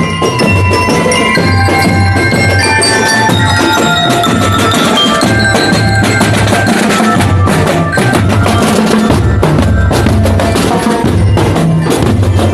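School marching band playing: a bright, bell-like melody over a steady, repeating drum beat.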